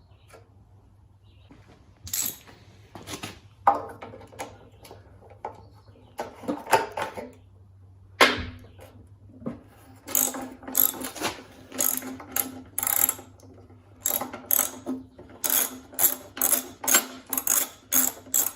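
Socket ratchet clicking as bolts are worked loose. Scattered clicks and knocks at first, then from about halfway a steady run of ratchet strokes, about two a second.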